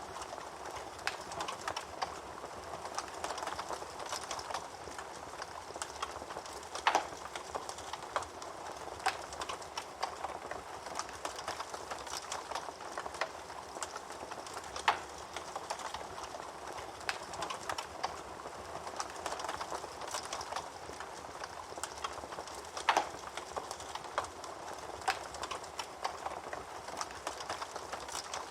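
Wood fire burning in a fireplace: a steady soft hiss with frequent small crackles and a few louder, sharper pops spread through.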